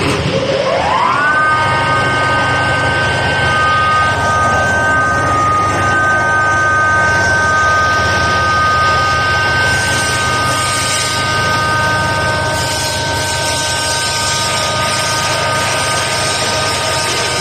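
Coffee bean grinder machine's electric motor starting up, its whine rising in pitch over about a second, then running steadily at full speed with a high whine and a constant hum.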